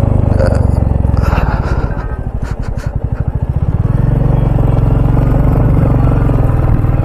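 Royal Enfield Bullet's single-cylinder engine running under the rider. The revs drop to a slow, beating thump about two seconds in, then the engine pulls steadily again. A few light clicks are heard midway.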